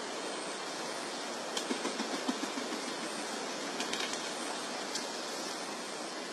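Steady background hiss with no clear source, marked by a few faint ticks and taps about one and a half to two and a half seconds in and again near four seconds.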